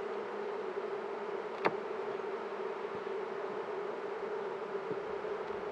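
Honey bees from an opened hive box, a steady roaring buzz that the beekeeper reads as the colony saying there is no queen in this box. A single sharp click sounds about a second and a half in.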